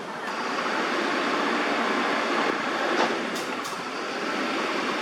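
Steady rushing noise of passing traffic, swelling shortly after the start, with a few short high clicks around the middle.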